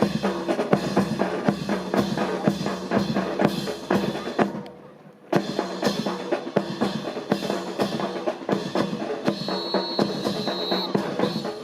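Marching snare and bass drums playing a quick drill cadence, breaking off briefly a little before halfway and then carrying on. A short high steady tone sounds about two thirds of the way in.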